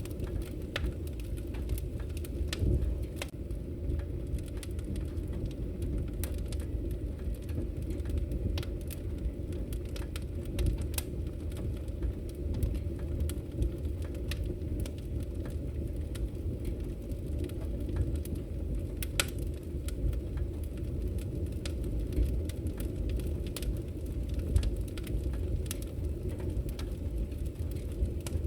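Wood fire burning in a fireplace: a steady low rumble with frequent irregular crackles and pops, a few sharper ones standing out.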